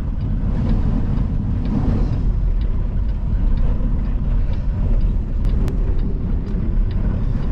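Semi-truck cab interior at highway speed in a strong gusting wind: a steady low rumble of engine, tyres and wind buffeting the cab. Two sharp clicks about five and a half seconds in.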